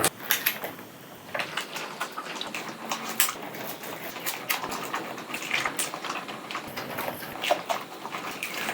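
People eating pizza dipped in ranch, close up: irregular wet chewing, lip-smacking and mouth clicks, with a few short squeaky sounds.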